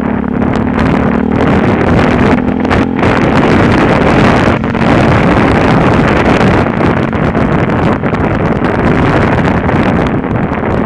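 Yamaha WR125R's single-cylinder four-stroke engine running while riding, with wind rushing over the microphone. A steady engine tone at the start is swamped by louder wind and engine noise from about two seconds in.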